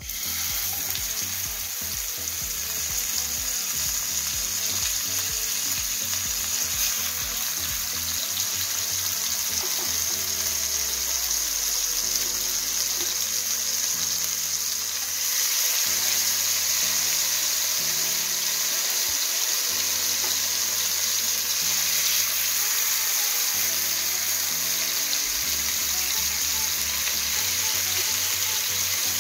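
Chicken pieces frying in hot oil in a pan: a steady, dense sizzle that starts abruptly as the first piece goes in and grows louder about halfway through. A bass line of background music runs faintly underneath.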